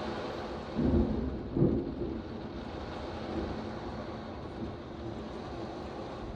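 Thunderstorm: a steady hiss of heavy rain and wind, broken about a second in by two short, loud, low booms of thunder half a second apart.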